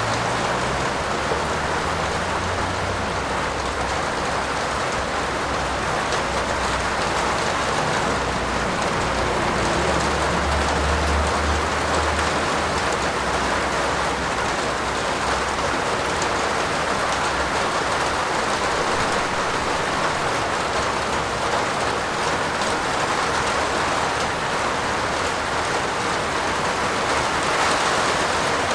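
Steady heavy rain falling on a roof, an even hiss with no let-up. A low rumble comes and goes underneath, strongest about ten to twelve seconds in.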